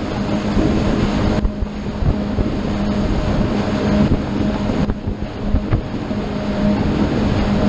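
A motorboat's engine running steadily at cruising speed, a constant low hum, under heavy wind buffeting on the microphone and the rush of water along the hull.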